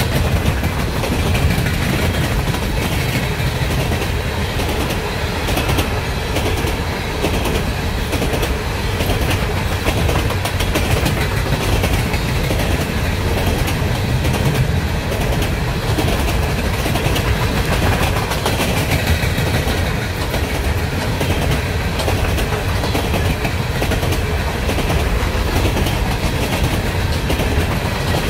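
Empty steel coal cars of a long freight train rolling past close by: a steady, loud rumble with a dense clatter of wheels over the rail joints, unbroken throughout.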